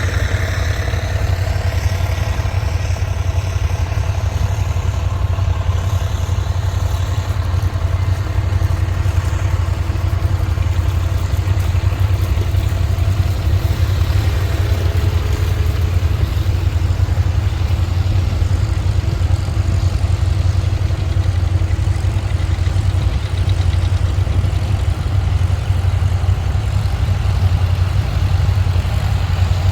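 Tractor engine running steadily with a deep, even drone, with a whine falling in pitch in the first couple of seconds.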